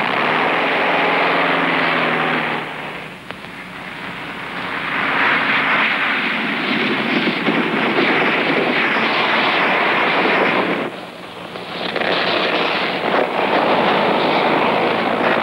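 Volkswagen Beetle's air-cooled flat-four engine running as the car drives through snow, under a steady rushing noise that dips briefly twice.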